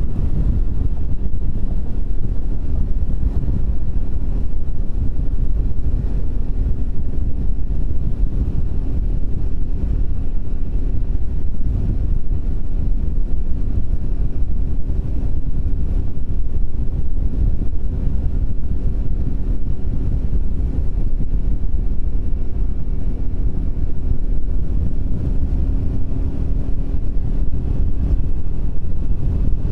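Triumph Speed 400's single-cylinder engine running steadily at cruising speed, buried under heavy wind buffeting on the microphone.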